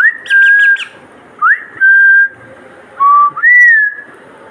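A person whistling to a pet parrot chick three times, each whistle a quick upward slide into a held note. A few faint, short high chirps come during the first whistle.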